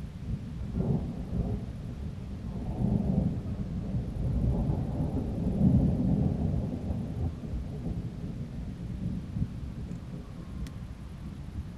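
Rolling thunder rumbling in waves, swelling to its loudest about six seconds in and then slowly dying away.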